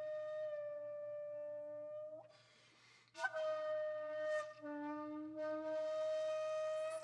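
Background music: a breathy flute playing long held notes over a faint low drone. A note fades out about two seconds in, and after a short pause a new note starts with a puff of breath and is held with slight bends in pitch.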